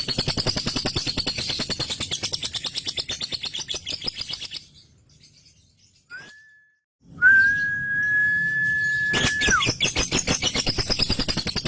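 Male lovebird's ngekek song: a fast, continuous rattling chatter that breaks off about four seconds in. After a short pause comes a brief whistle, then one long, steady whistle held for about two seconds that slides down at its end, and the rattling chatter starts again near the end.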